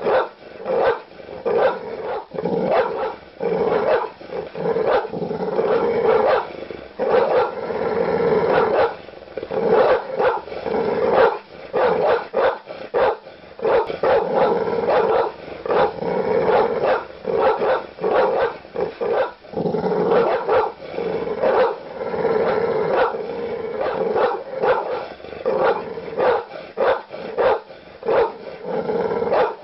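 A large dog barking deep and aggressive, loud barks coming one after another with hardly a pause.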